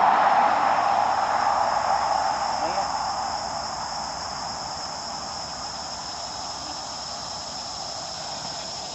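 Steady high-pitched chorus of insects, with a louder rushing engine-like noise fading away over the first few seconds.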